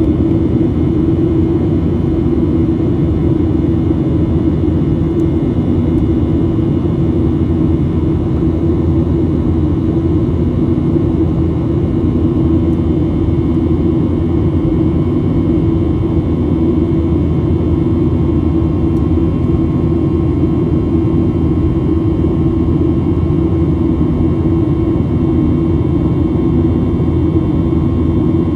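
Steady cabin noise of a Boeing 737-800 in flight: the constant drone of its CFM56 jet engines and the airflow past the fuselage, heard from a passenger seat. A low hum carries most of the sound, with a few faint steady tones above it.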